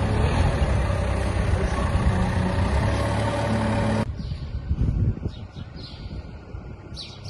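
A truck engine running close by, loud and steady, cutting off abruptly about four seconds in. After it comes a quieter low rumble, with birds chirping near the end.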